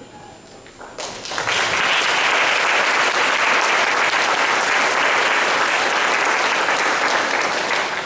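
Audience applauding: the clapping starts about a second in, swells quickly and holds steady, then stops near the end.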